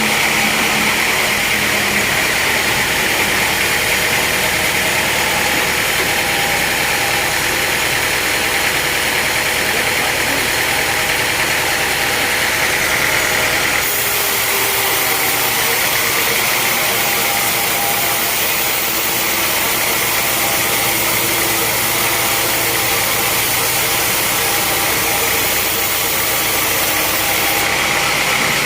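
Engine-driven sawmill machinery running steadily, with a constant high whine over the engine noise. The sound changes character about halfway through.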